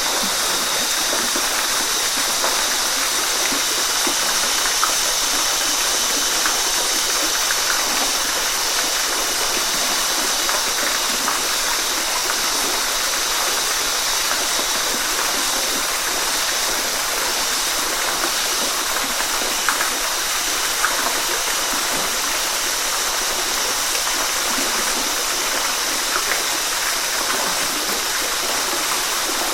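Waterfall: water falling and splashing steadily, a continuous even rush with small splashes flicking through it.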